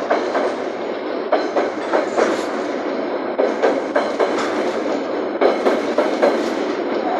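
Long freight train of empty coal wagons rolling past, the steel wheels clacking over the rail joints in an uneven run of knocks, several a second, over a steady rumble.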